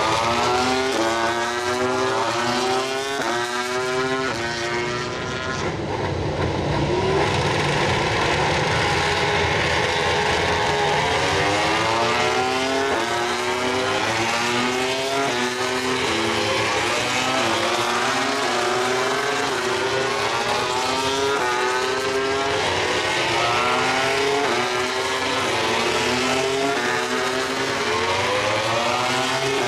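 MotoGP prototype racing motorcycles with four-cylinder engines accelerating hard from practice starts, one bike after another. Each engine note climbs in pitch and drops back at every upshift, and the notes overlap into a continuous loud sound.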